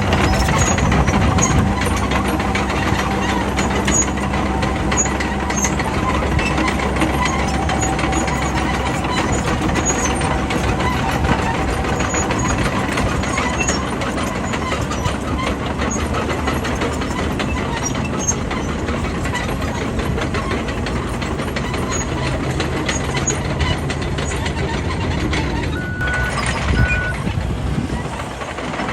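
Bulldozer's diesel engine running steadily under load, with a constant rattle of clicks over it. Two short high beeps sound near the end.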